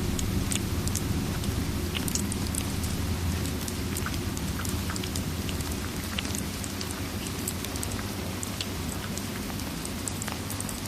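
Steady rain mixed with a crackling fire: a continuous low rumble and hiss, dotted with many small, sharp, irregular crackles.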